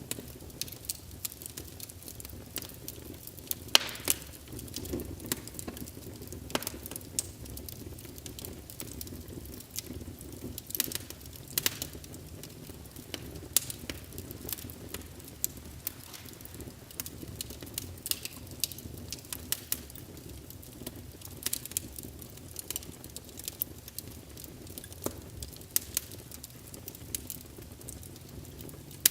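Wood fire burning in a fireplace: logs crackling with irregular sharp pops and snaps over a low, steady rush of flame. The loudest pop comes about four seconds in.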